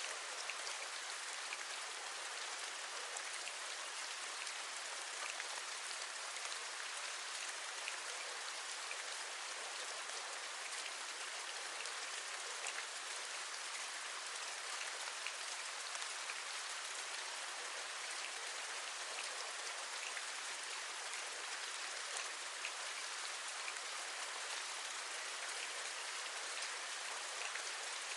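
Steady rain falling, an even hiss dotted with many small, scattered drop taps.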